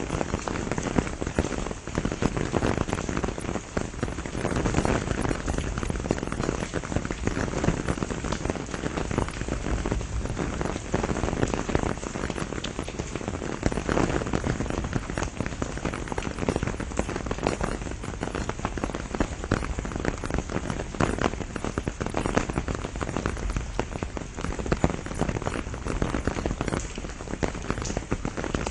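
Steady rain falling on leaves and surfaces, with many small drop impacts ticking through a constant hiss.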